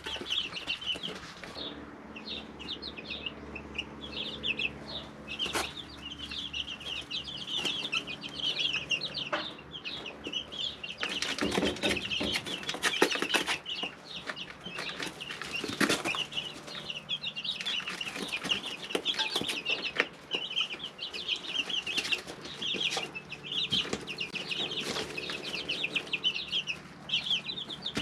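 A brood of three-week-old chicks peeping constantly in a brooder: many short, high chirps overlapping. Occasional short rustles or wing flaps come through, most of them about halfway through.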